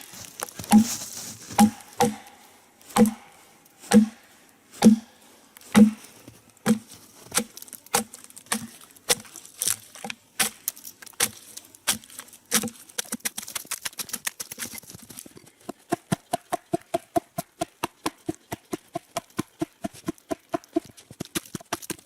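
Axe chopping into a log again and again, hewing out chips: heavy blows about one a second, then from about thirteen seconds in quicker, lighter strokes, about three a second.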